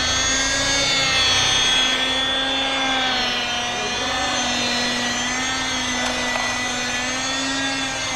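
A steady mechanical whine or hum from a running motor or machine, its pitch wavering slightly.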